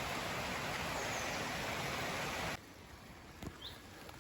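Steady hiss of heavy rain, which cuts off abruptly about two and a half seconds in, leaving a much quieter background with a faint high chirp.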